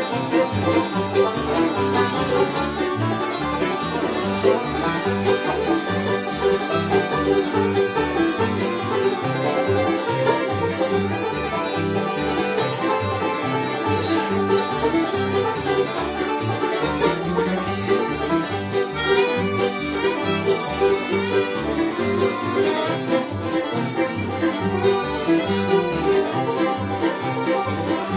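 Instrumental bluegrass tune played on banjo, fiddle and guitar, with a steady rhythmic bass pulse.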